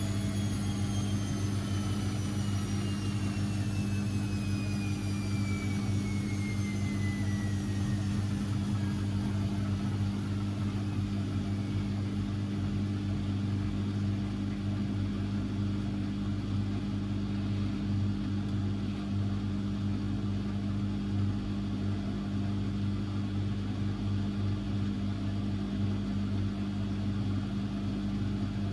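Constructa Energy 1000s washing machine running: a motor whine falls steadily in pitch over the first ten seconds or so and fades, as the drum's spin winds down. A steady low hum continues throughout.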